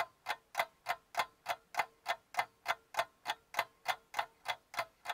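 Clock-like ticking, perfectly even at about three ticks a second, with dead silence between the ticks: an added ticking sound effect.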